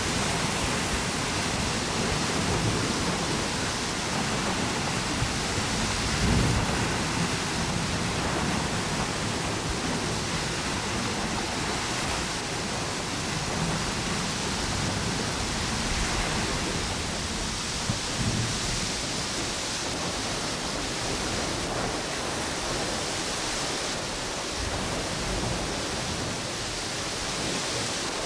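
Ocean waves washing on a beach under strong, gusty wind through palm trees: a steady rushing wash with a low rumble that swells and eases.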